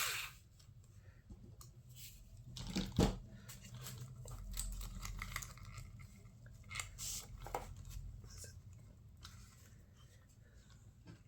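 Scattered light clicks and rattles of small screws and plastic and metal parts being handled on an RC truck chassis, with one sharper click about three seconds in.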